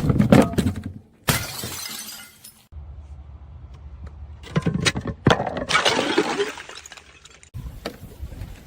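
Glass bottles breaking under crushing, in several bouts of sharp cracks and crunching shards: one right away, a sudden burst about a second in, and a longer stretch of cracking and grinding glass past the middle.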